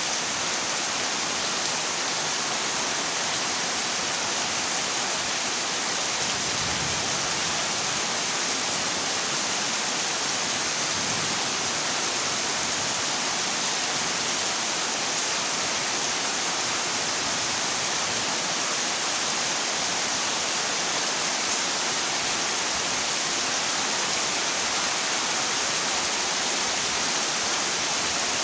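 Heavy rain drumming steadily on a corrugated zinc roof, a dense, even hiss with no letup.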